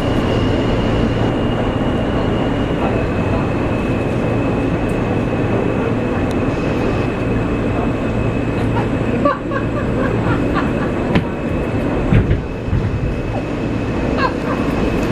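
Subway train running, heard from inside the car: a steady loud rumble with a thin high whine, and a few sharp knocks and a thud about two-thirds of the way through.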